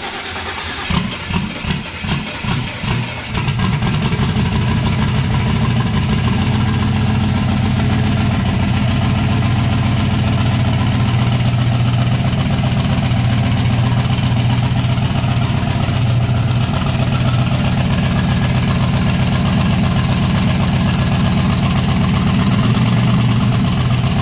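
Turbocharged LS V8 in an S10 drag truck cranking and sputtering in uneven pulses, then catching about three seconds in and running steadily.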